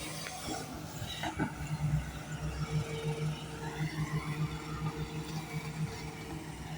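A motor running with a steady low hum and a rapid pulse, a few clicks about a second and a half in.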